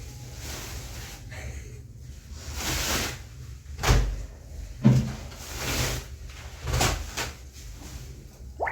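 Furniture and a rug being shifted about a room: several knocks and thumps, the loudest about four and five seconds in, with stretches of rustling and scraping between them.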